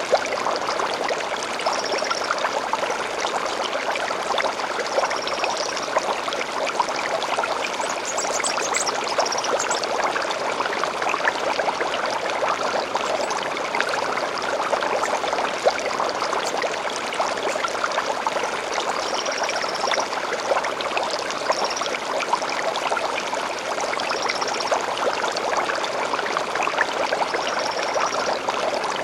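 A gently flowing stream, running steadily, with a bird giving short high notes every few seconds over the water.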